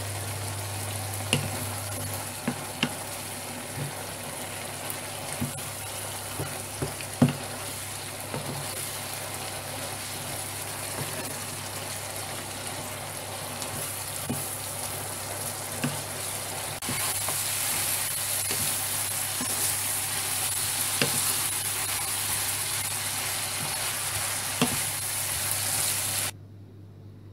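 Chicken pieces and green peas sizzling in a frying pan as the liquid cooks down, with scattered clicks of the stirring utensil against the pan. The sizzle grows louder about two-thirds of the way through and cuts off suddenly near the end.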